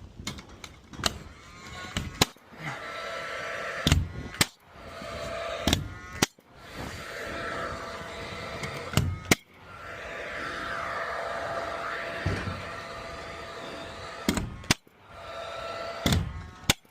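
Workshop sounds during a woodworking build: a series of sharp knocks and bangs, about a dozen, over a steady hum with a faint tone, breaking off abruptly several times.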